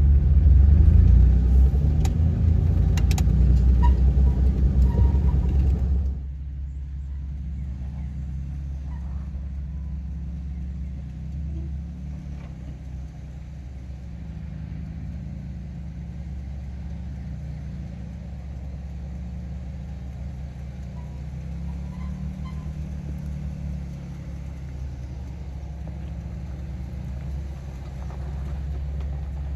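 Jeep Wrangler engine running at low revs while crawling off-road, first loud inside the cab with a few knocks, then, from about six seconds in, a quieter steady low rumble heard from outside as the Jeep climbs slowly through a rut.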